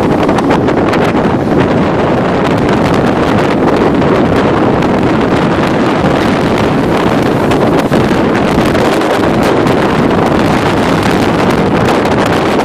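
Strong wind blowing across the microphone: a loud, unbroken rush with constant small buffets.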